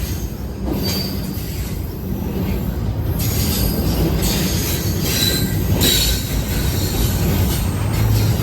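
Train rolling past with a steady low rumble, its wheels squealing on the rails in short high-pitched bursts.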